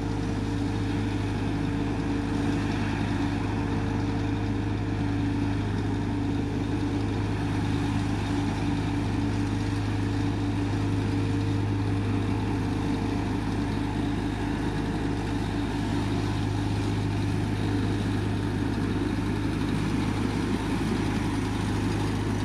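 Heavy diesel engine of road-paving machinery running steadily at constant speed, a level drone that does not change.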